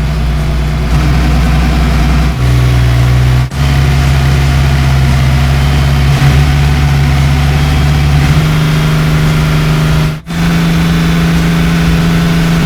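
Steady, loud engine hum of a cartoon vehicle sound effect, dropping in pitch about two seconds in and rising again about eight seconds in, with a brief cut about ten seconds in.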